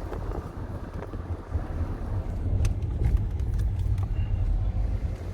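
Road noise inside a moving vehicle's cabin: a steady low rumble from the tyres and engine, with a few light clicks or rattles in the second half.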